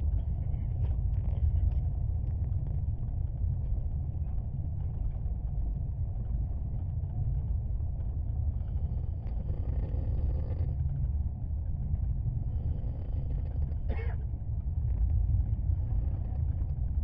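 Steady low rumble of a moving passenger train, heard from inside the carriage, with one brief sharp sound about fourteen seconds in.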